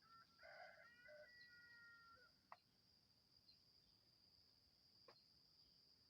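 A faint, drawn-out bird call of about two seconds, held then dropping at its end, over a steady high insect trill. Two sharp clicks follow, one about two and a half seconds in and another about five seconds in.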